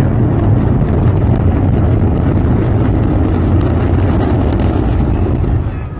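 Antares rocket's first-stage engines roaring during liftoff: a loud, steady low rumble with crackle, which eases off slightly just before the end.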